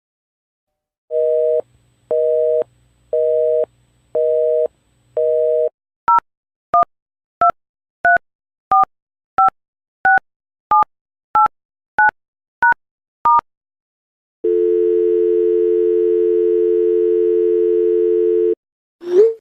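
Telephone sound effects in a row. First a busy signal of five evenly spaced beeps, then about a dozen quick touch-tone dialling beeps, then a steady dial tone for about four seconds. A short sliding blip comes right at the end.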